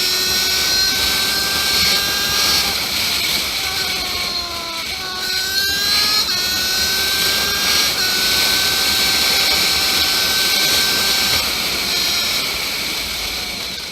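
Motorcycle engine running under way, its pitch climbing and dropping several times with throttle and gear changes, including a quick rev about five seconds in, over steady wind rush.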